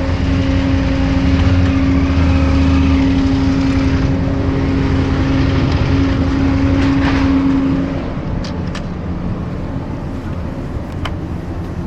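Engine running steadily with a steady hum, which drops away about eight seconds in, leaving a quieter rumble with a few light clicks.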